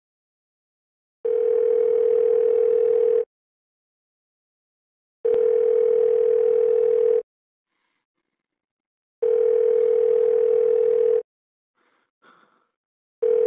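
Telephone ringback tone heard through the receiver while a call rings out: a steady, slightly buzzy tone lasting about two seconds, heard three times with two-second silences between, and a fourth starting just at the end.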